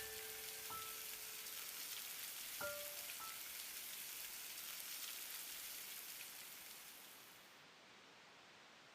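Steady soft rain-like hiss with a few light chime notes ringing out in the first three seconds. The hiss fades away near the end.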